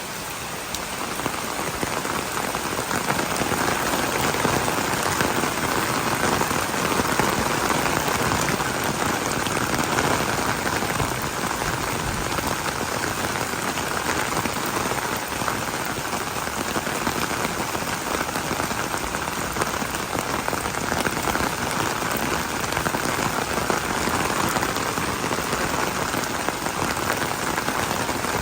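Steady rain falling, a dense, even patter that grows a little louder over the first few seconds and then holds steady.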